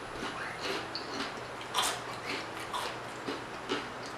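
A person chewing and biting into crab rangoon close to the microphone: a string of short, irregular mouth sounds, the loudest about two seconds in.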